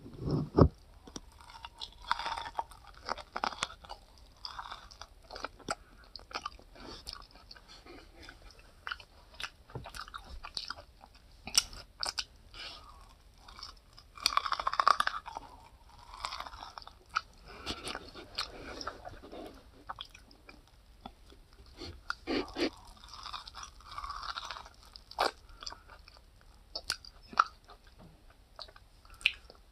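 A person biting and chewing corn on the cob: irregular crunches and small clicks of eating.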